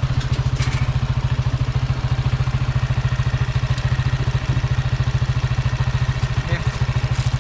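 Small motorcycle engine running steadily at low revs, its exhaust beating in a fast, even pulse.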